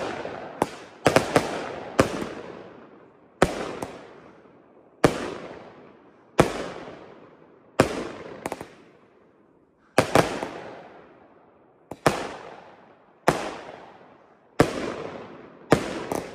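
Aerial fireworks firing shot after shot, about one every second and a half. Each is a sharp bang that fades out over about a second, and a few are preceded by a smaller pop.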